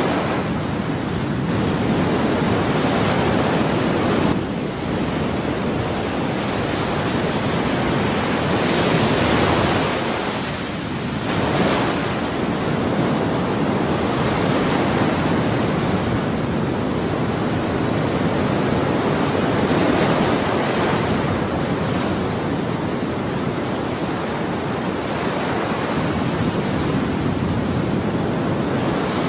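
Ocean waves breaking and washing on a shore in a continuous rush of surf, swelling and easing, with stronger surges about nine seconds in and again around twenty seconds.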